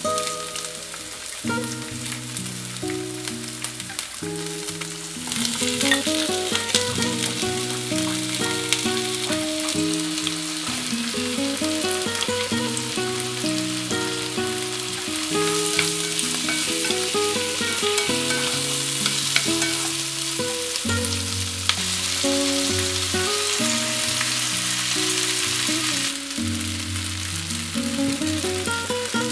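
Vegetables and sliced sausage sizzling as they fry in a nonstick frying pan, the sizzle growing louder about five seconds in. Gentle instrumental background music with a melody plays along.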